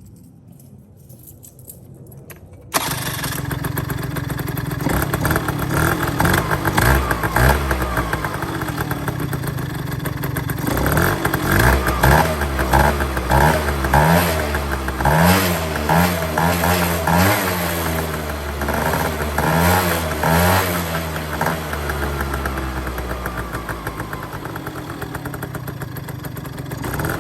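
Suzuki Address V100 scooter's two-stroke single-cylinder engine and exhaust starting up suddenly about three seconds in and idling, then revved in a series of quick throttle blips from about 11 to 21 seconds before settling back to idle.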